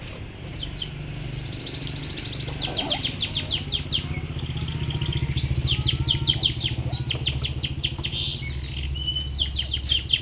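Domestic canary singing long, rapid trills of repeated rising notes, louder toward the middle, over a steady low hum.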